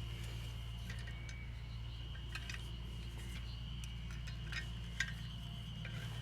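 Scattered light clicks and clinks of small hard objects, the sharpest about five seconds in, over a steady low hum and a faint steady high tone.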